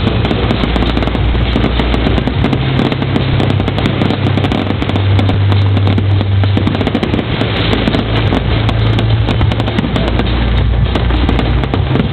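Fireworks crackling and banging continuously over loud music played through speakers, the music's deep bass notes held for a couple of seconds at a time and changing.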